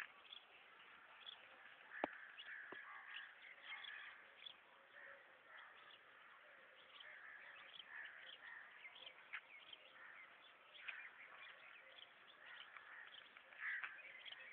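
Faint bird calls, many short chirps and caws scattered throughout, with a sharp click about two seconds in.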